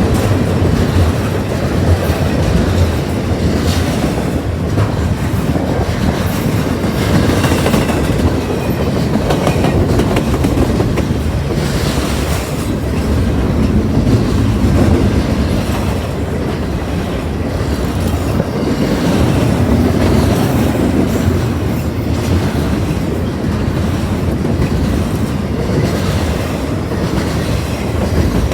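Train cars rolling steadily past, wheels clicking over rail joints in an irregular clickety-clack over a continuous low rumble.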